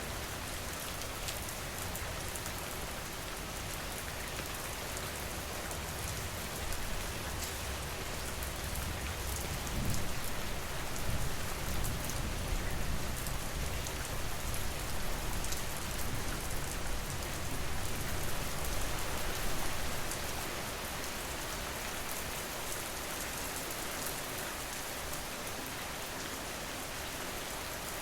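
Steady rain falling, with a low rumble that swells about a third of the way in and fades again about two-thirds through.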